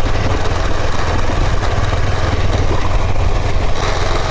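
Motorcycle engine running steadily with an even low pulsing, heard from the bike itself.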